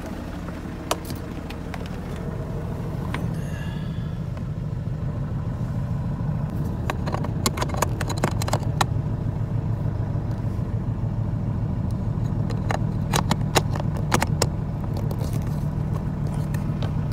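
A car engine idling steadily with a low hum. Scattered clicks and light rattles sound over it as the diagnostic cable's plug is handled and pushed into the port under the steering wheel.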